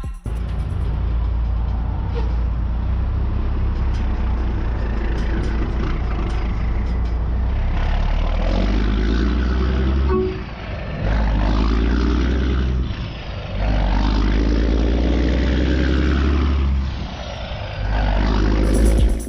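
Heavy diesel truck engine running, with its pitch rising and falling as it revs in the second half and dropping off briefly a few times.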